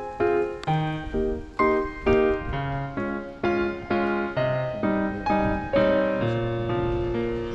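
Background piano music: a slow, gentle melody with notes struck about twice a second over held lower notes.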